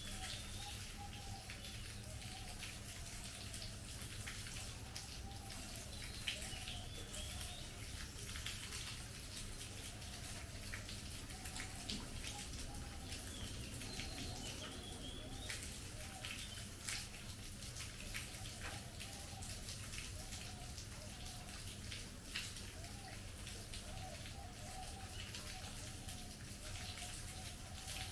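Steady monsoon rain falling on leaves and a roof, with many scattered drips. Birds call on and off through it.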